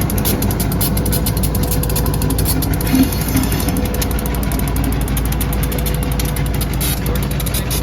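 Steady engine rumble of a running vehicle, with a fine, rapid ticking clatter over it.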